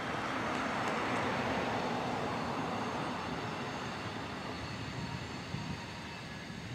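A distant freight train rolling by: a steady rumble and rushing wheel noise that swells about a second in and then eases off.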